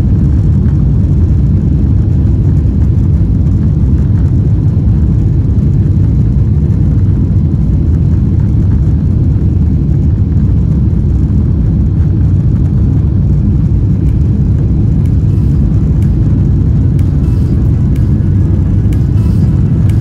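Steady, loud, low rumble inside the economy cabin of a Boeing 777-300ER during takeoff, with its two GE90-115B engines at high thrust.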